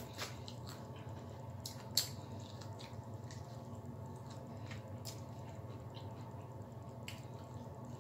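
Close-up mouth sounds of a person chewing fried chicken wings: wet smacks and clicks, with one louder smack about two seconds in, over a steady low hum.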